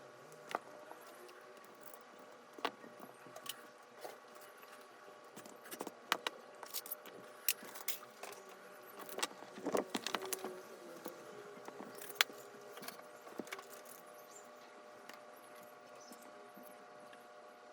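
Small hand tools clicking and tapping against the parts of an iPod Touch being taken apart, in scattered light clicks that cluster in the middle, over a faint steady hum.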